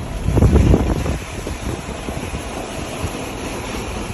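Hailstorm: a steady roar of hail and rain coming down hard. A gust of wind buffets the microphone about half a second in.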